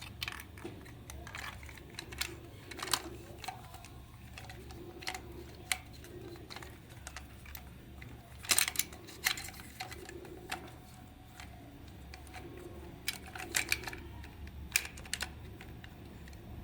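Irregular light clicks and taps, like small hard parts being handled, with a cluster of sharper clicks about halfway through, over a steady low hum.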